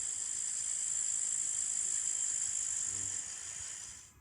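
Crickets chirping in a steady, high-pitched trill that fades out near the end.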